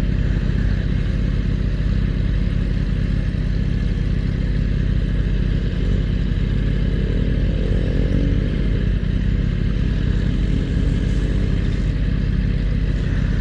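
Motorcycle engine running steadily at an even pace, with a fainter wavering engine tone joining briefly around the middle.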